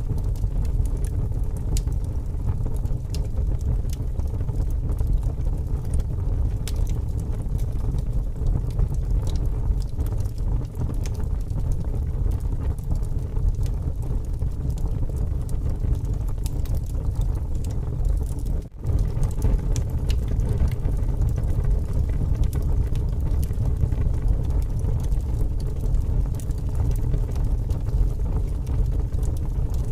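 Wood fire burning with scattered sharp crackles and pops over a steady low rush of strong wind. The sound drops out for an instant about two-thirds of the way through.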